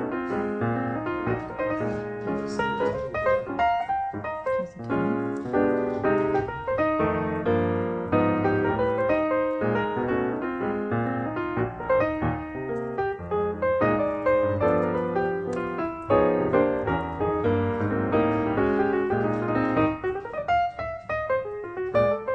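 Background piano music, a quick run of notes at a steady level.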